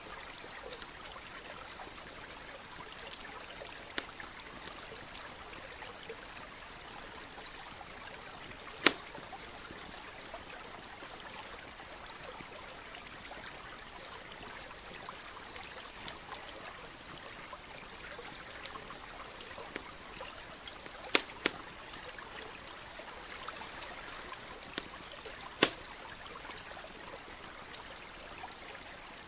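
Campfire crackling with scattered sharp pops, three loud ones, over the steady rush of a flowing stream.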